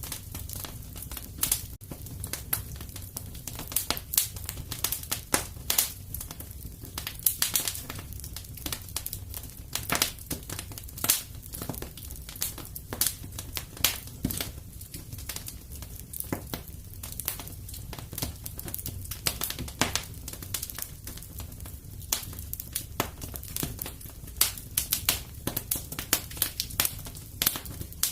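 Wood fire crackling and popping in a fireplace: irregular sharp snaps several times a second over a low steady rumble of the flames.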